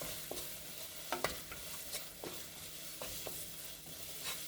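Efo riro (spinach stew) sizzling in a pot on the stove while a utensil stirs it, knocking and scraping against the pot about five times.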